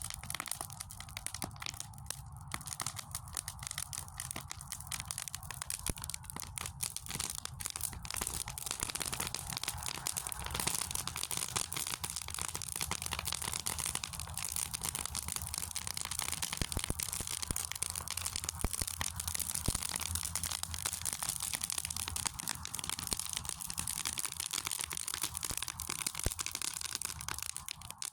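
Fire in a fire pit crackling steadily, a dense run of small pops and snaps.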